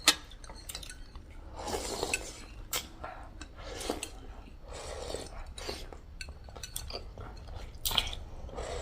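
Spoons and forks clinking against bowls and plates during a meal, a scatter of separate clicks with softer scraping between them.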